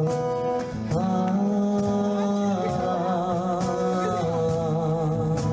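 Live band music: held melody notes over a bass line and a steady strummed beat.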